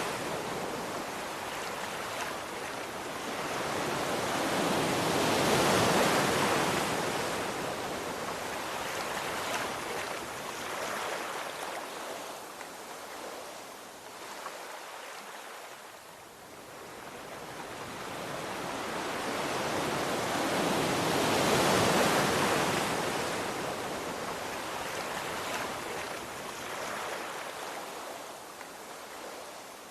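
Sea waves washing ashore, a steady wash of surf that swells and fades slowly, with two big surges about 6 and 22 seconds in.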